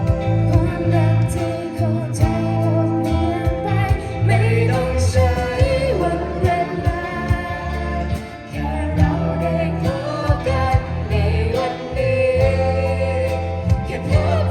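A band playing a song, with a singer over drums and bass.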